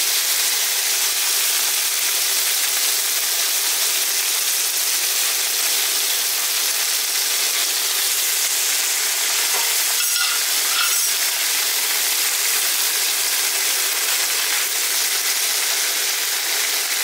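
Paneer cubes shallow-frying in hot butter and oil in a nonstick pan, a steady sizzle as the cubes are laid in.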